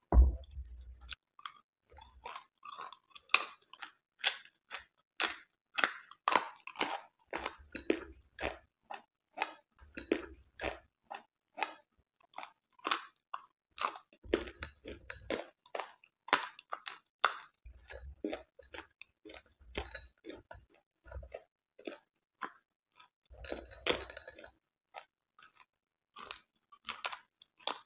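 Close-miked chewing of crunchy food: a steady run of crisp crunches and crackles, a few a second, with occasional soft low thumps.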